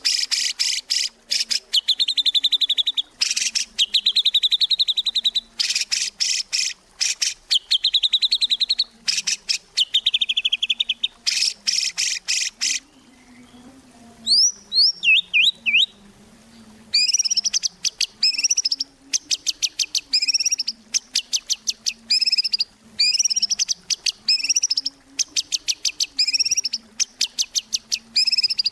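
White-rumped shama (murai batu) singing hard and without let-up, in loud bursts of fast repeated buzzy notes and chatters, with a few quick falling whistles about halfway through. A faint low drone runs underneath.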